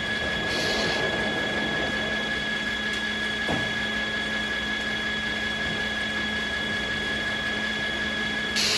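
Sawmill machinery running steadily between cuts: a continuous hum with a high, steady whine, and one short click about three and a half seconds in. A louder, hissier noise starts right at the end.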